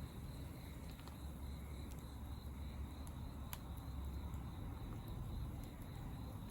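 A cricket trilling steadily on one high note, with a few sharp crackles from a wood campfire over a low rumble.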